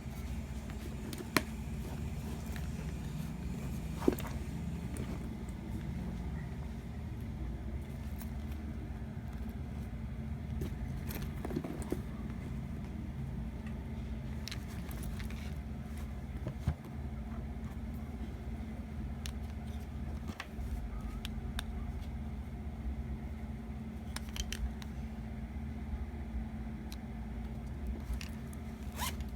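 Steady low road rumble and hum inside a moving car, with a few sharp clicks and small rattles.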